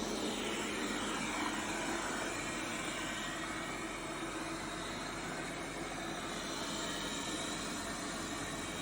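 Laresar robot vacuum cleaner running: the steady whoosh of its suction fan, with a faint whine that slowly drifts in pitch.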